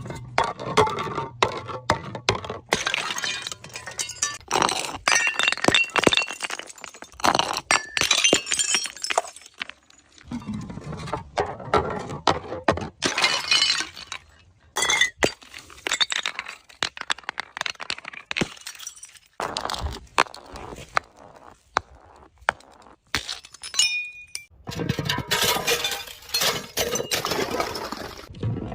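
Glass bottles breaking and shattering again and again, dense crashes and the clinking of shards in clusters, with short lulls between them.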